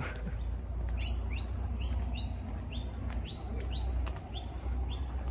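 A bird calling from a eucalyptus tree: from about a second in, a quick run of many short, sharp calls, each dropping in pitch, repeated two or three times a second, over a low steady rumble.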